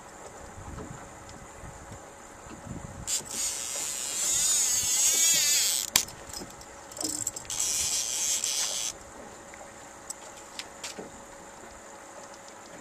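Fishing reel paying out line as a planer board is let run out: two spells of high buzzing, the first ending in a sharp click about six seconds in, the second shorter, over a faint steady hum.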